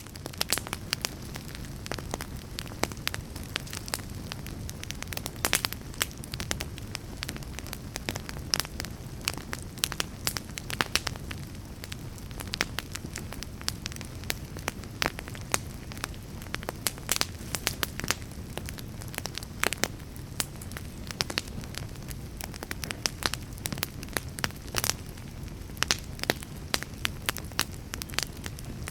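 Fire crackling: a steady low rumble of flames with frequent, irregular sharp pops and snaps.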